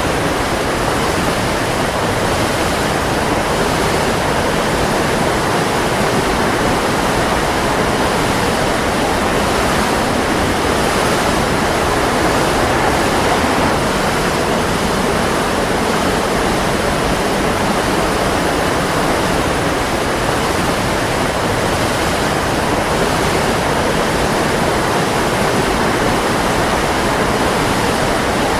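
Waterfall: water falling and rushing in a steady, unbroken roar of even noise.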